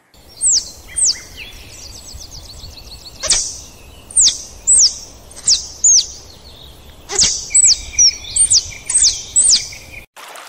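A bird calling repeatedly: loud, sharp, high whistles that each sweep quickly downward, about a dozen in all, with a fast buzzy trill between them early on.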